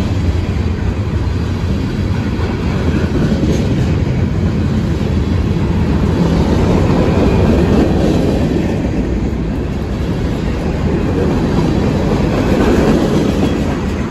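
CSX freight train Q316 passing close by: a steady noise of steel wheels rolling on the rails, swelling and easing slightly.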